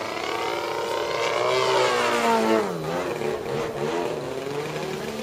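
The 120cc gas engine of a large radio-control Edge 540 aerobatic plane running in flight. It grows louder as it approaches, then drops in pitch as it passes, about halfway through.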